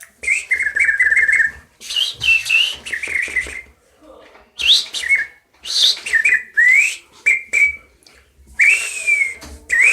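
A man whistling imitations of bird calls in a run of short phrases with brief pauses between. The phrases mix quick warbled trills, sharp upward-sweeping whistles and slurred falling notes, with the hiss of breath through the lips.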